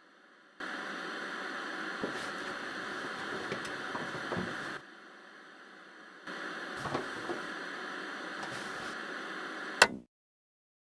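Static-like hissing noise, steady and loud, with a lull for about a second and a half in the middle. It cuts off abruptly with a sharp click about ten seconds in, leaving dead silence.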